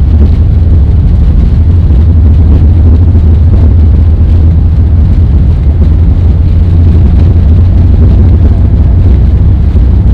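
Steady, loud cabin noise inside an Airbus A380 in flight: a deep rumble of engines and rushing air that stays even throughout.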